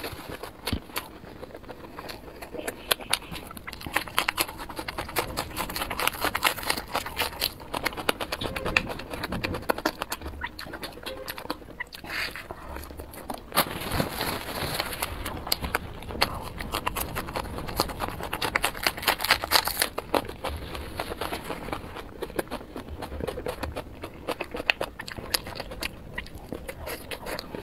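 Close-miked chewing of chili-coated skewered food: a dense, steady run of wet mouth clicks and lip smacks.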